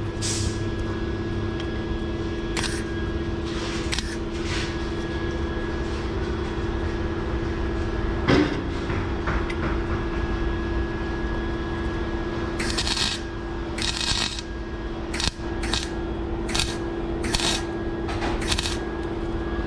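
Welding arc crackling in short bursts: one about eight seconds in, then several quick ones in a row near the end, with a steady hum underneath.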